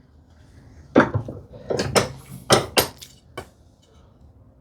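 Tools and a wooden slat being handled on a workbench: a handful of sharp knocks and clinks, bunched between about one and three and a half seconds in.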